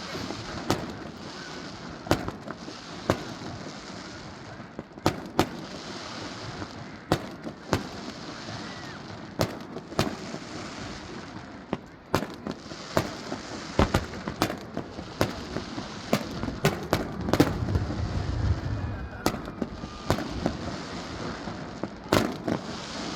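Aerial fireworks display: a continual run of sharp bangs from bursting shells at irregular spacing, sometimes several in quick succession, over a steady hiss. The bangs grow denser and deeper for a few seconds about two thirds of the way through.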